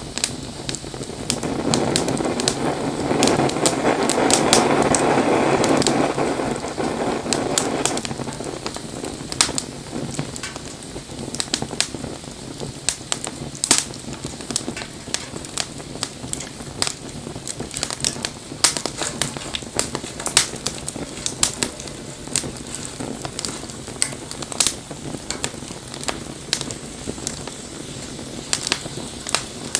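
Wood campfire crackling and popping, with sharp snaps throughout. For the first several seconds a louder rushing noise sits over it, then stops.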